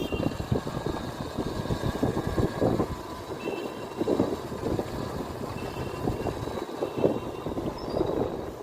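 Wind and road noise from a moving motorcycle, rising and falling unevenly, with a few short, faint high tones now and then.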